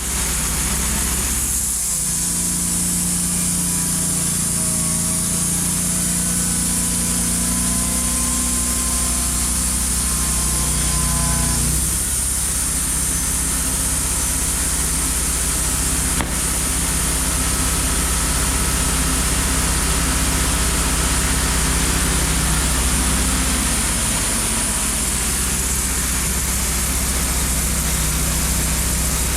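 Wood-Mizer band sawmill running under load, its engine holding a steady note while the blade cuts through a walnut log with a steady hiss; the engine note shifts about twelve seconds in.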